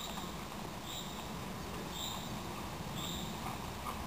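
A bird giving a short high chirp about once a second, three times, over steady outdoor background noise.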